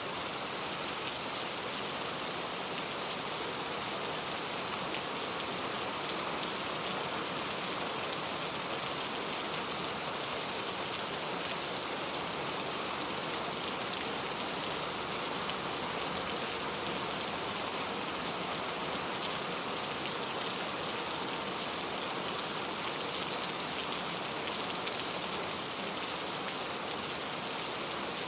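Steady rain falling: an even hiss of rain with many fine drops pattering on a surface, unchanging in level.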